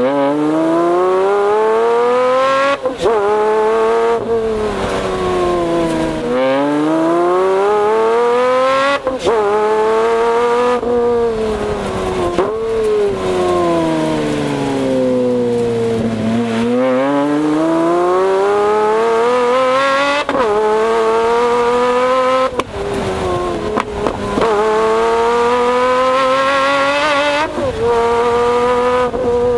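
Pagani Zonda's AMG V12 exhaust heard close up under hard acceleration, the pitch climbing through the revs and dropping sharply at each upshift, about seven times. Midway it falls away over a few seconds as the car slows, then climbs again on full throttle.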